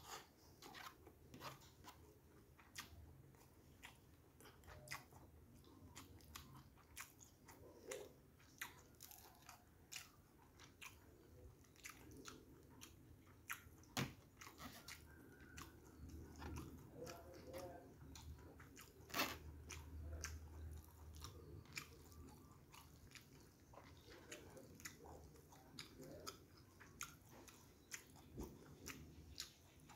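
Close-miked chewing of a mouthful of rice and fried fish eaten by hand: faint, frequent small wet mouth clicks and chews, with a few sharper clicks.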